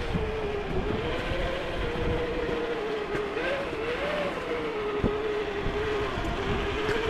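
Traxxas TRX4 Land Rover Defender RC crawler's electric motor and geartrain whining steadily, its pitch wavering a little with the throttle, with scattered crunches and knocks.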